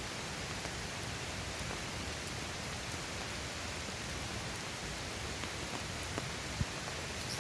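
Steady, even hiss of water, with a few faint ticks scattered through it.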